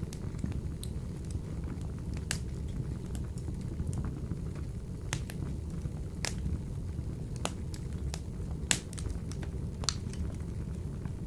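Wood fire burning in a wood-burning stove: a steady low rumble of flames with scattered sharp crackles and pops, about eight of them, the loudest about three-quarters of the way through.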